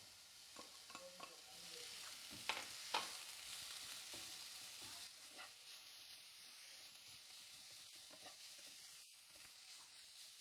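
Faint sizzle of grated carrot frying in oil with onions in a pan, stirred with a spoon, with two louder scrapes or taps about two and a half and three seconds in.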